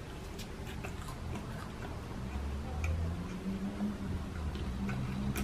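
A person chewing chicken McNuggets, with soft, irregular mouth clicks over a low hum.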